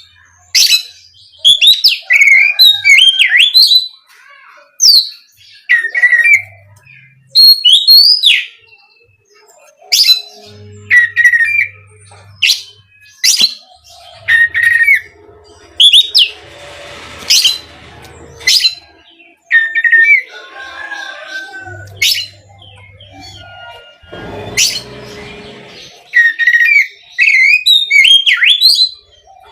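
Oriental magpie-robin (kacer) singing in loud, short phrases of clear whistles, sharp chips and quick pitch glides, separated by brief pauses, with harsher raspy passages about 17 and 25 seconds in.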